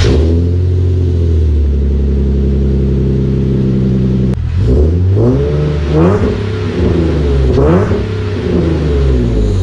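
Nissan 370Z's 3.7-litre V6 running through test pipes in place of its catalytic converters and a cat-back exhaust: a steady high idle just after a warm start, then, about halfway in, several quick revs that rise and fall in pitch before it settles back toward idle near the end.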